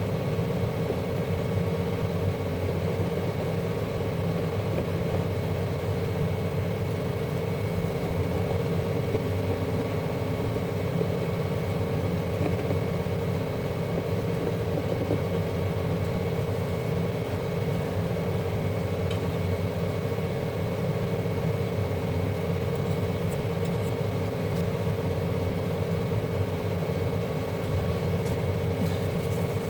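A steady mechanical hum at a constant pitch, unchanging throughout.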